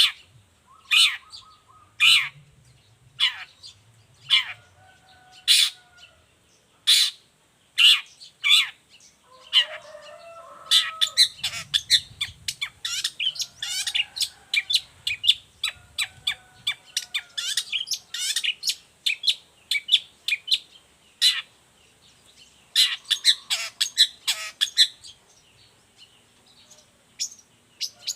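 Long-tailed shrike singing: sharp, clipped notes about one a second, then a long fast run of rapid chattering notes, with soft short whistles in between.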